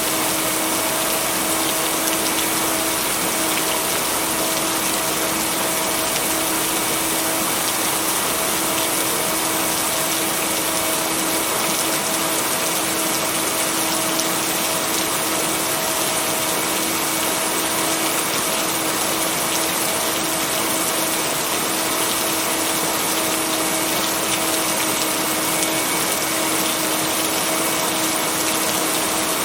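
Steady rain noise with no thunder, blended with a constant low hum of binaural-beat tones held underneath.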